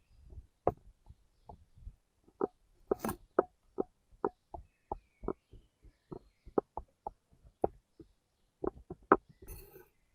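A knife chopping on a cutting board: a run of short, sharp knocks, about two to three a second and slightly irregular, with a couple of brief rustling bursts in between.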